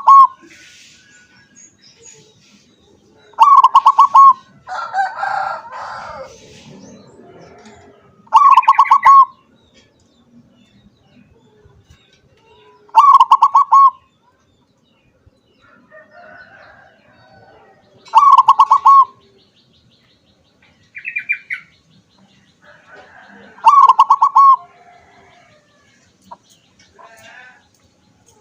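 Zebra dove (perkutut) singing its cooing song: about five loud phrases, each a quick run of pulsed coos lasting about a second, repeated roughly every five seconds. Fainter chirps from other birds come between the phrases.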